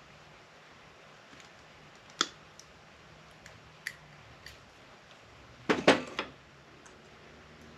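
Sparse clicks and light clacks of hand tools and small parts being handled while a UPS battery backup unit is taken apart, with a louder short cluster of clatter about six seconds in.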